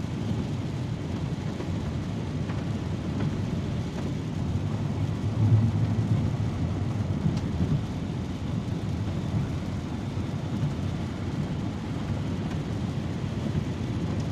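Steady low rumble of a car's road and engine noise heard from inside the cabin, swelling louder for a couple of seconds about five seconds in.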